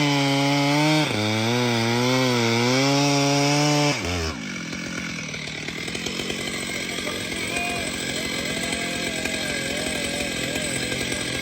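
Chainsaw running hard as it cuts through a tree, its pitch wavering under load, then dropping to a lower, rougher idle about four seconds in.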